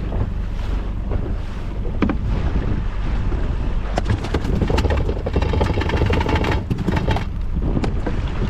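Steady wind and water rumble on a small inflatable boat. About halfway through comes a quick, irregular run of knocks and slaps lasting around three seconds.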